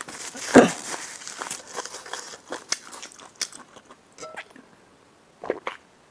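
Close-miked eating: bites and chewing with short wet mouth clicks, loudest about half a second in, then tapering off before a few last clicks near the end.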